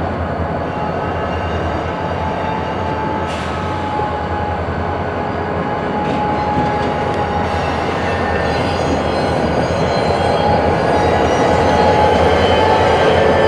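Freight cars rolling slowly through the yard tracks, a steady rumble with thin, steady wheel squeal that grows louder toward the end.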